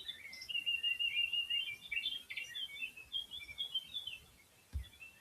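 Small songbirds chirping and twittering in quick, overlapping calls, with one longer held whistle about a second in, thinning out near the end.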